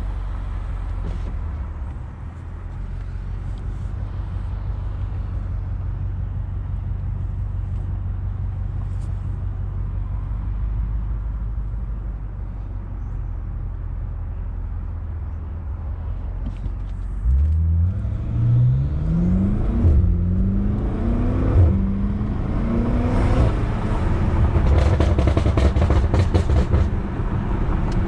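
BMW M5 Competition's twin-turbo V8 and loud exhaust: a steady low drone while cruising, then about two-thirds of the way in the car accelerates hard, the engine note rising and dropping back at gear changes and staying loud to the end.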